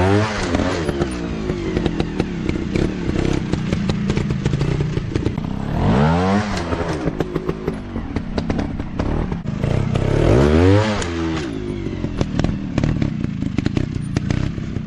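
Off-road dirt bike engines revving hard three times, rising and falling in pitch, with steady running in between and a constant clatter of short knocks.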